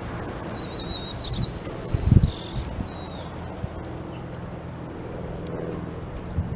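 A songbird sings one high phrase: a quick warbled trill, a few short clear notes, then a falling slurred whistle. Wind rumbles on the microphone underneath, with its loudest gust about two seconds in.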